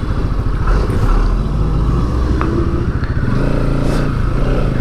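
Bajaj Pulsar NS200's single-cylinder engine running while the motorcycle is ridden, its pitch rising briefly and then settling to a lower, steady note about three seconds in.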